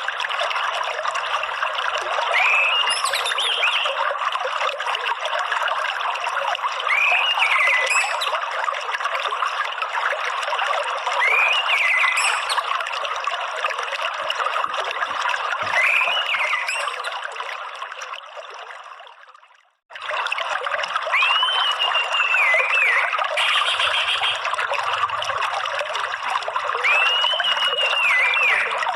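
Steady trickling water with a bird giving a short, arched whistled note every few seconds, meant as orange-headed thrush (anis merah) song for training caged birds. About two-thirds of the way through, everything fades out to silence, then starts again suddenly.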